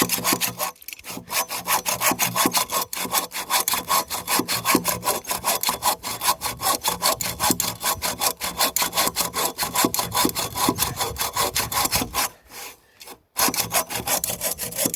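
Hand saw cutting through wood in quick, even back-and-forth strokes, with a pause of about a second near the end before the sawing resumes.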